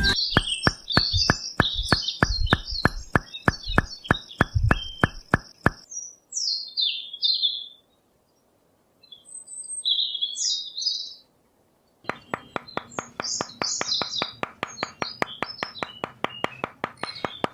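Small birds chirping, over a regular clicking of about three to four ticks a second that stops about six seconds in and starts again about twelve seconds in.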